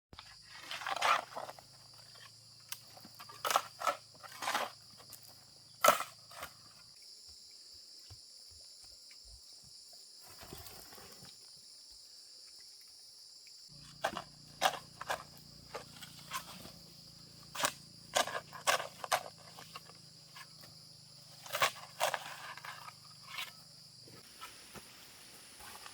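Irregular sharp knocks and taps come in clusters over a steady high-pitched insect drone, with a pause of several seconds in the middle. A low hum sounds under the knocks and stops during the pause.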